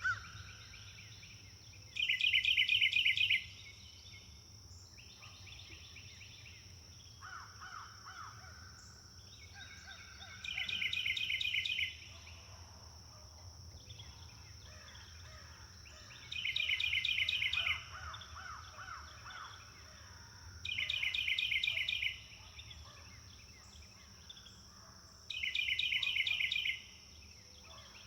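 Songbirds singing: one bird repeats a loud, rapid pulsed trill five times, each lasting about a second and a half, with fainter, varied songs from other birds between. A steady high hiss runs underneath.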